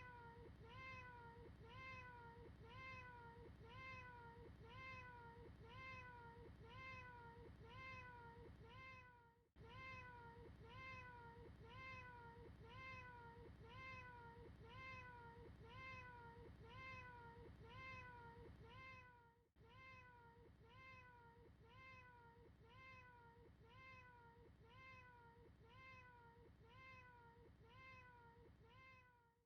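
A short cat meow repeated over and over as a loop, quiet, about three meows every two seconds, with a brief break roughly every ten seconds.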